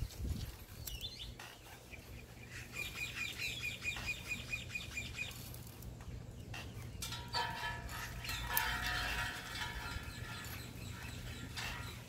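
Birds calling: a rapid run of repeated high chirps about three seconds in, then louder, harsher calls a few seconds later, over a steady low hum. Faint clicks and rustles of a paper towel and dry twigs being pushed into a steel stove's feed tube.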